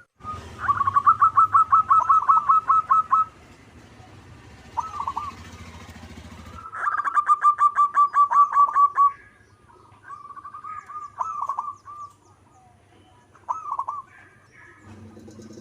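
Zebra dove cooing: two long runs of rapid staccato coos, one starting just after the beginning and one about halfway through, with shorter coo phrases between and after.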